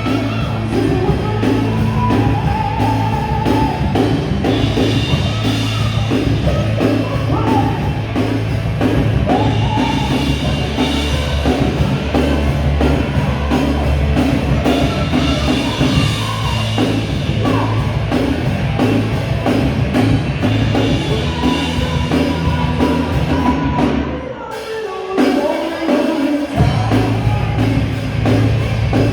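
Live rock and roll band playing: drum kit, bass and guitar with a singer. About 24 seconds in, the bass and drums drop out for a couple of seconds, and then the full band comes back in.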